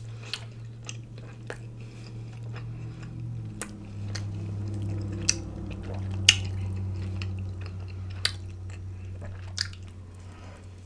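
Close-up chewing and biting of a chicken gyro wrapped in a flour tortilla, with sharp wet mouth clicks scattered through. A steady low hum runs underneath.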